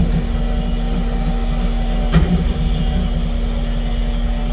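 Heavy construction machine's diesel engine running steadily, with a single sharp clank about two seconds in.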